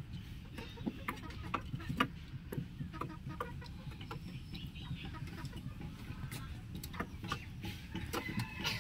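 Chickens clucking, with many short, sharp clicks scattered throughout and a brief call near the end.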